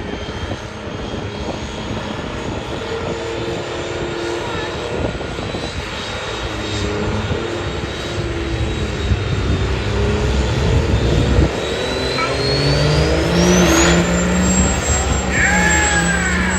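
Turbocharged diesel truck engine running hard, its pitch climbing and its turbo whine rising steeply about thirteen seconds in, then holding high.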